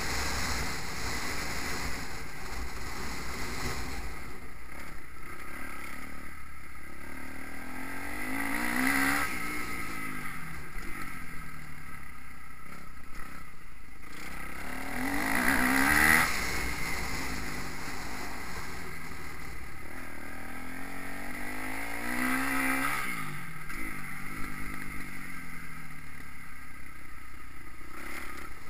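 Motocross bike engines revving up and down on the track, swelling loud three times about seven seconds apart as they come close. Wind rumbles on the microphone.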